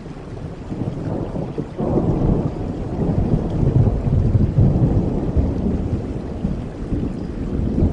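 Rolling thunder over steady rain: a deep rumble builds about two seconds in, is loudest near the middle and slowly dies away.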